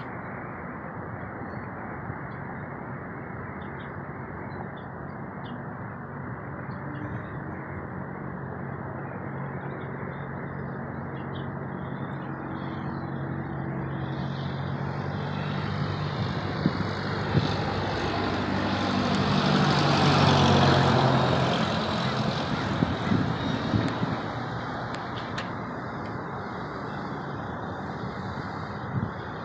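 Cessna 172R Skyhawk's four-cylinder Lycoming engine and propeller droning as the plane flies past: the hum slowly builds, peaks about two-thirds of the way through with a drop in pitch as it passes, then fades. A few sharp clicks sound around the pass.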